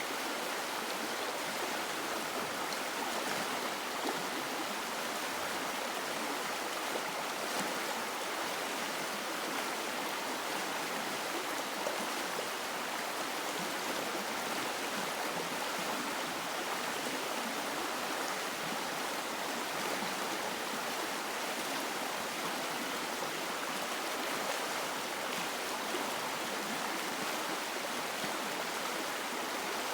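River water flowing and rushing over stones, a steady even rush.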